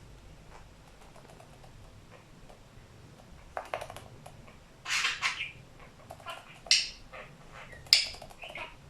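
Budgie giving a few short, sharp chirps and chattering calls, scattered through the second half after a quiet start.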